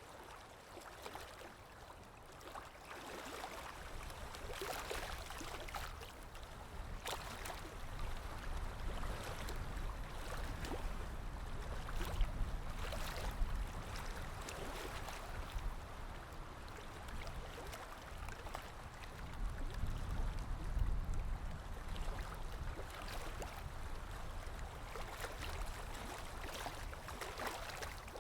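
Water lapping with small splashes under a low wind rumble. The wind swells about halfway through and again about two-thirds of the way in.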